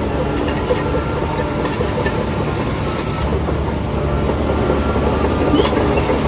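Shantui DH17C3 crawler bulldozer working: its diesel engine running steadily under a dense metallic clatter.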